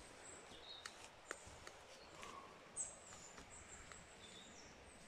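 Near silence in woodland, with faint, short, high-pitched bird calls and a few soft clicks.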